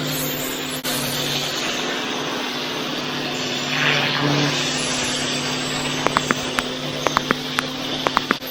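Pressure washer running with a steady drone while the high-pressure water jet hisses against the paving. Near the end comes a quick run of about a dozen sharp clicks.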